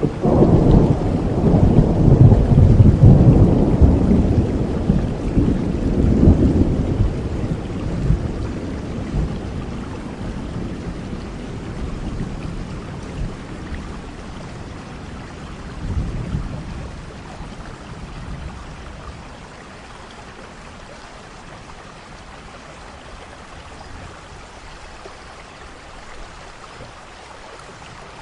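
Thunderstorm: a long roll of thunder that is loudest in the first several seconds and slowly rumbles away, with a smaller rumble about halfway through, over steady rain.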